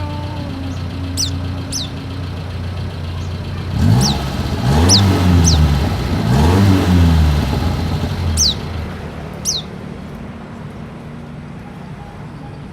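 Short, thin, high chirps falling in pitch, seven in all, from a white-eye (pleci), over a steady engine hum. Between about four and eight seconds in, a motor vehicle engine revs up and down, the loudest sound.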